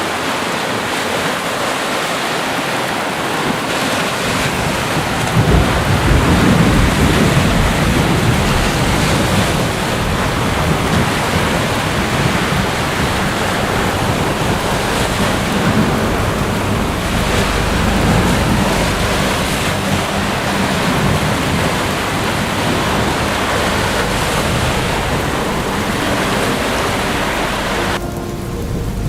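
Steady heavy rain, with a low rolling rumble of thunder swelling in about five seconds in and carrying on underneath. Near the end the rain abruptly thins to a softer sound.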